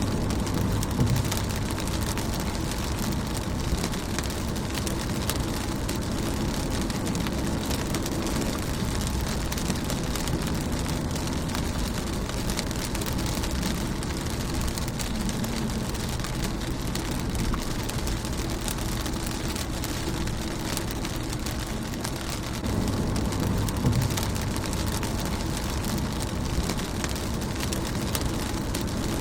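Steady rain falling on a car's windshield and body, heard as an even patter. Underneath is a low rumble that swells about a second in and again from about 23 seconds.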